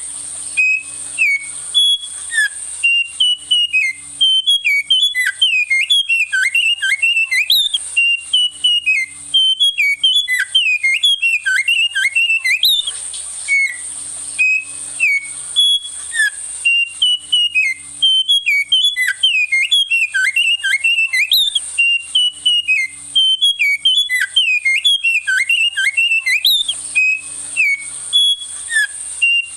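Small songbird singing loud, fast phrases of whistled notes that sweep down and up, repeated over and over with short pauses. A steady thin high tone runs underneath.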